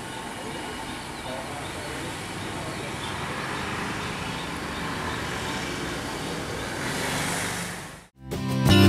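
Class S8 diesel multiple unit train pulling away, a steady rumble of engine and wheels that swells slightly and then fades out about eight seconds in. Acoustic guitar music starts right after, near the end.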